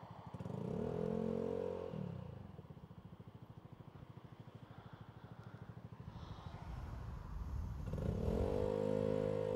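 Motorcycle engine idling with a steady low pulse, its note rising and holding twice: briefly about half a second in, and again near the end.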